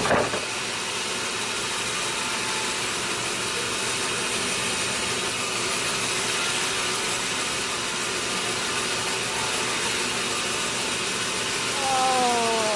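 Sawmill machinery running with a steady noise; near the end a whine with several tones drops in pitch over about a second, like a motor slowing.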